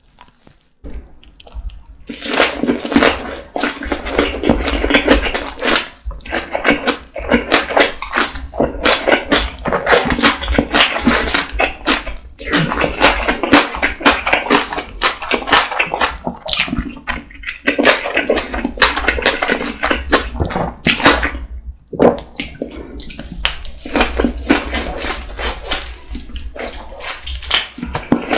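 Mouth sounds of eating tuna kimbap close to the microphone: biting and chewing the seaweed-wrapped rice roll. It is a dense run of clicks that starts about two seconds in and breaks off briefly a few times.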